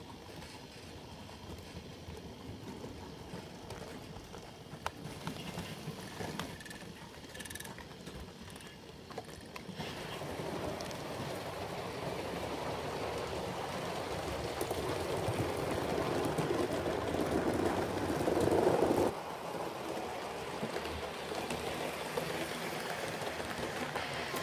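7mm-scale model train running along the layout's track, a steady rumbling noise that grows louder as it comes closer and drops off suddenly about nineteen seconds in.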